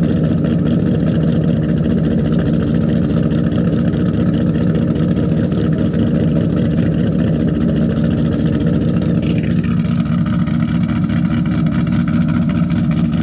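2008 Mustang Bullitt's 4.6-litre V8, fitted with Ford Racing cams, Kooks long-tube headers, an X-pipe and Magnaflow mufflers, idling steadily with the choppy, lumpy idle of its aftermarket cams, not yet fully warm after a cold start. Its tone shifts slightly about nine seconds in.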